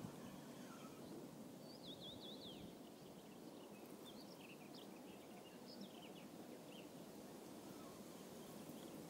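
Faint outdoor quiet with a small bird chirping: a quick run of high chirps about two seconds in, then scattered single chirps.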